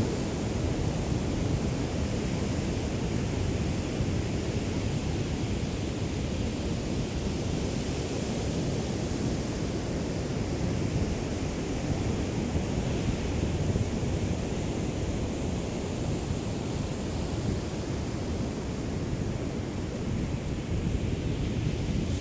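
Small sea waves lapping on a beach in a steady wash, with a low wind rumble on the microphone from a light breeze.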